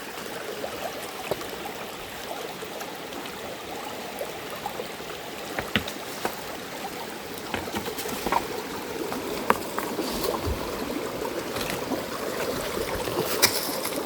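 Steady rush of running or falling water, growing slightly louder toward the end, with a few short knocks or taps over it.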